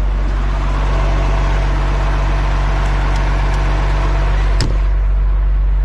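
Heavy tow truck's diesel engine running steadily during a winch recovery, with a single sharp knock about four and a half seconds in.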